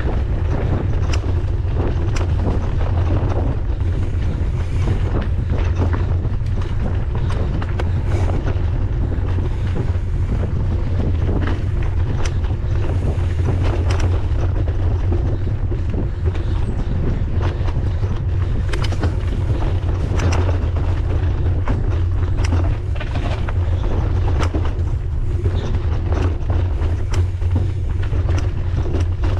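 Wind buffeting the microphone of a camera carried on a mountain bike being ridden on a trail, a steady low rumble, with frequent sharp clicks and rattles from the bike over rough ground.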